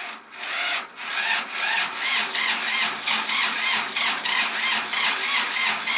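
Old Kubota tractor engine being cranked over without catching, turning in an even rhythm of about two and a half pulses a second with a wavering pitch on each pulse.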